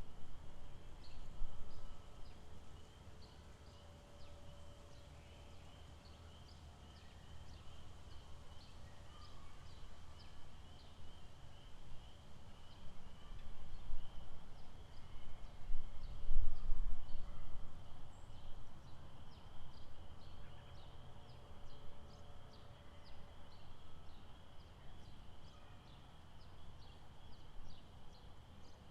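Lakeside nature ambience: a steady high-pitched animal chorus with a run of short, evenly repeated chirps above it, and a low rumble that swells loudest about halfway through.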